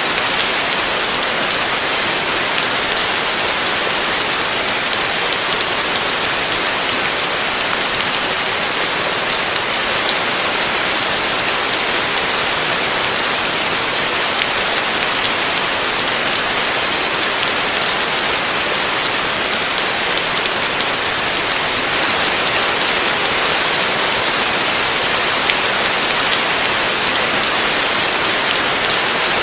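Heavy rain falling steadily on a roof: a dense, even hiss of countless drops, growing a little louder about three quarters of the way through.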